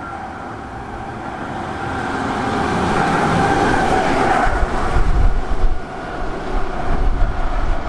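A train approaching and passing close by, growing louder over the first few seconds and then running past with a heavy rumble and a steady hum.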